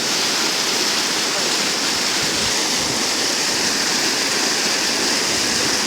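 River water rushing steadily, swollen after heavy rain.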